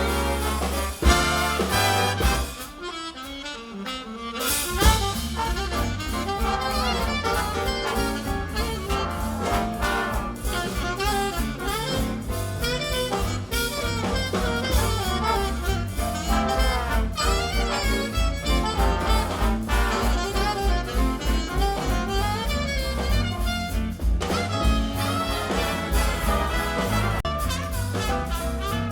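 Big band playing swing jazz: saxophone, trumpet and trombone sections over a rhythm section with a steady beat. The band drops quieter about two and a half seconds in, then comes back in with a loud accent about five seconds in.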